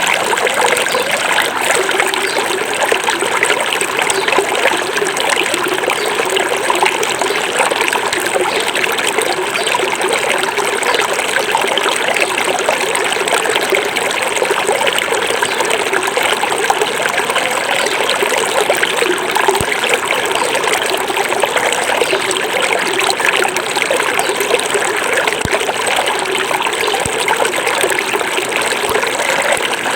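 A small forest river running over stones, a steady babbling and trickling flow.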